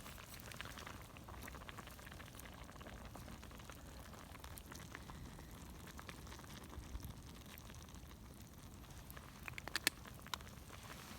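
Pot of hot-pot broth simmering with a faint, steady bubbling as it comes to the boil. A few light clicks come near the end.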